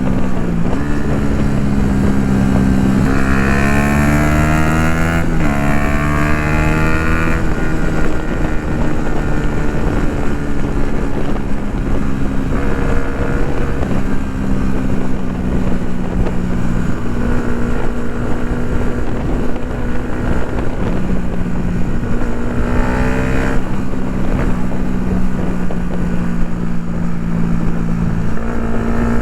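Yamaha MT-125's 125 cc single-cylinder four-stroke engine through an Akrapovic full exhaust, heard while riding. A few seconds in the revs climb hard across a gear change, then it holds a steady cruise, with another brief rise in revs near the end. Wind noise on the microphone throughout.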